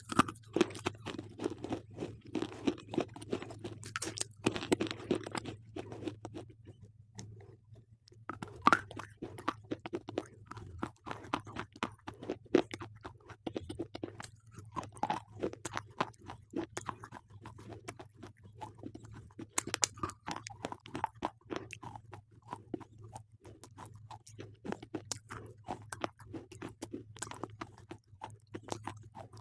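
Slate pencils being bitten and chewed close to the microphone: dense, irregular crunching with a short pause about seven seconds in, over a faint steady low hum.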